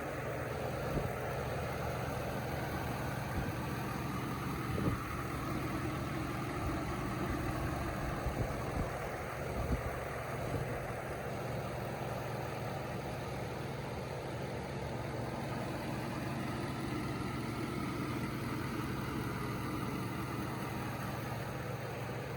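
2020 Ford F-150 pickup's engine idling steadily, with a few light knocks in the first half.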